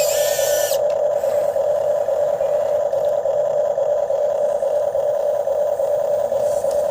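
Steady, even hum of a radio-controlled excavator's motor running, holding one pitch. Higher-pitched whirring heard at the start cuts off about a second in.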